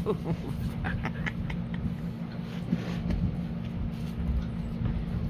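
Dogs playing, with scattered short vocal noises and scuffling, over a steady low hum.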